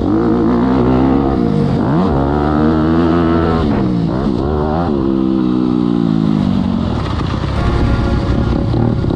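Motocross bike engine revving hard, its pitch climbing and dropping sharply a few times, then sinking slowly toward the end.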